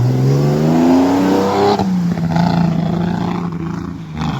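Off-road 4x4's engine revving under load, its pitch climbing for about two seconds and then holding steady.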